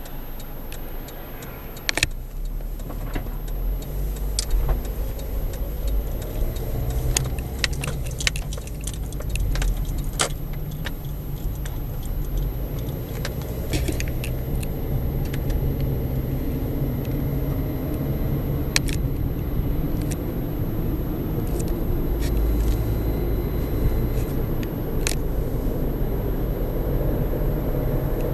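A car on the move: steady low engine and road rumble with scattered sharp clicks and rattles, with the rumble growing stronger as it goes.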